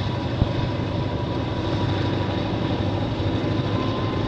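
Freight train crossing a high railroad bridge: a steady, continuous rumble of the rolling cars with a few light clicks.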